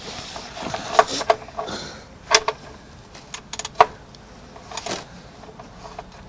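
A spanner working loose the sump plug on the oil pan of a Perkins 4.203 diesel engine: a run of sharp tool clinks and knocks, four of them loud, with lighter ticks in between.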